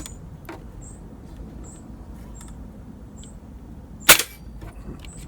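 An air rifle fires a single shot about four seconds in: one short, sharp crack.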